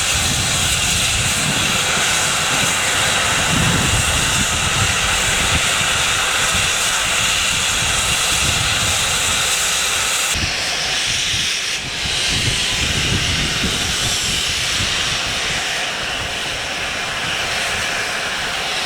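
Steam locomotive standing in the station, letting off a loud, steady hiss of steam; the highest part of the hiss drops off abruptly about ten seconds in while the rest carries on.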